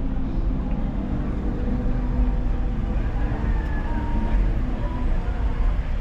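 Steady low rumble of road and engine noise from a car driving.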